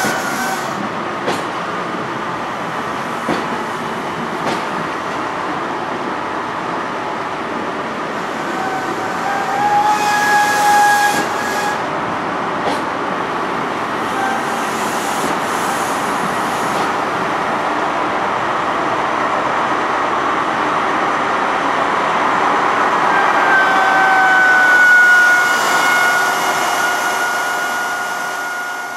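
The Mk3 coaches of a High Speed Train passing on the platform road: a steady rumble of wheels on rail with occasional clicks over rail joints and short high squeals from the wheels. The noise builds towards a peak near the end as the rear Class 43 diesel power car draws near, then eases off.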